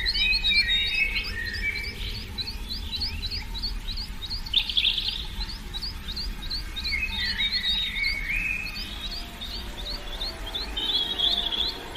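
Birds chirping: one bird repeats a short high chirp about three or four times a second without a break, while others sing varied warbling phrases, over a low rumble.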